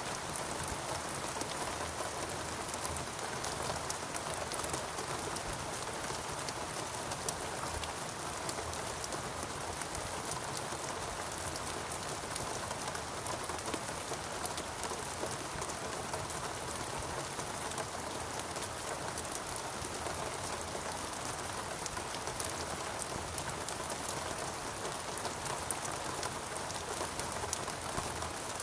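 Steady rain falling on foliage and ground, a dense even patter of many drops with no change in intensity.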